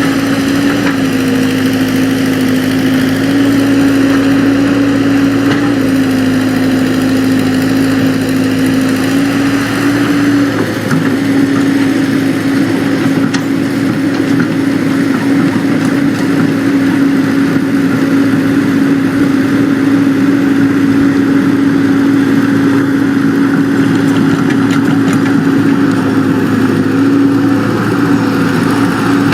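Excavator's diesel engine running steadily, its pitch shifting slightly up and down a few times as the load on it changes.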